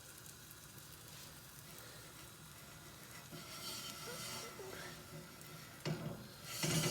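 Beaten eggs sizzling in melted butter in a hot frying pan while chopsticks stir and scrape them, with a sharp click and then a louder knock near the end.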